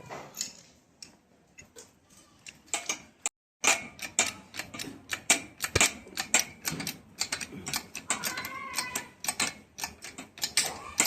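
Rapid, irregular light taps and clicks of metal hand tools working on motor parts, broken by a short dropout about a third of the way in.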